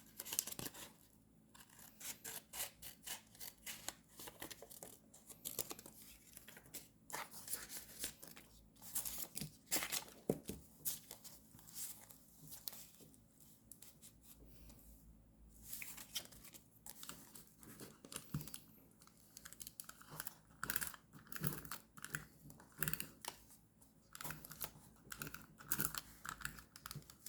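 Paper being handled close up: irregular rustling, tearing and light taps, as stickers and paper are worked for journal decorating.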